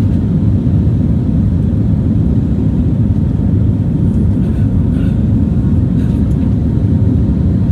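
Steady low rumble inside the cabin of an Airbus A320neo, its CFM LEAP-1A engines and airflow under power.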